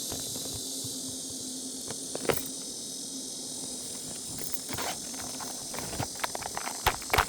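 Steady high-pitched chorus of insects. Scattered short clicks and knocks come through it, the loudest about two seconds in and near the end.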